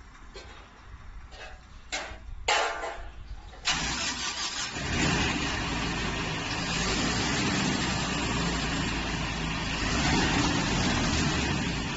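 A few short knocks, then a corn harvester's engine comes in suddenly about four seconds in and runs loud and steady, with a dense mechanical clatter over a low engine note.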